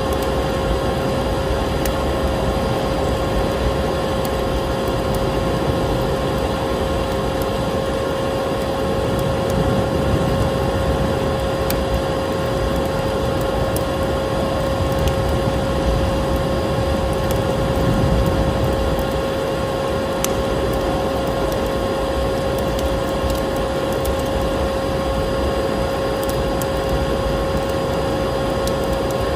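Electric vacuum cleaner running steadily with a constant hum, mixed with the scattered crackle of a wood fire.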